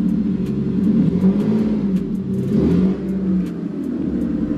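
1999 Mercury Cougar race car's engine idling, blipped twice in the middle, the pitch rising and falling each time before it settles back to a steady idle.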